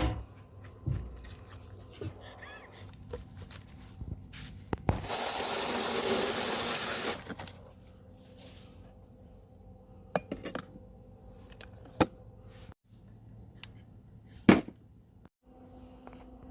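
A small drip coffee maker being handled and set up: a steady hiss of about two seconds starting some five seconds in, then scattered clicks and clinks of glass and plastic parts, the sharpest near the end.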